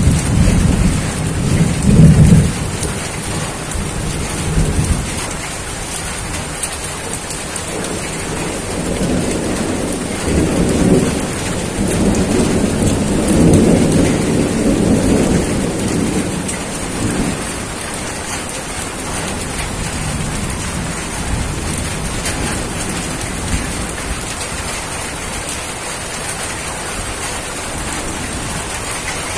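Steady heavy rain falling on a surface, with thunder rumbling low near the start and again in a longer roll from about 9 to 17 seconds in, then fading.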